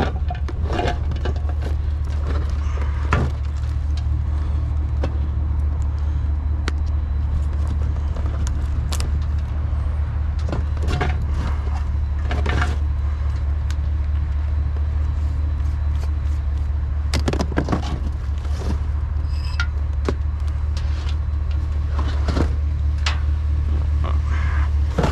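A vehicle engine idling steadily under the whole stretch, with scattered sharp knocks and clatters on top.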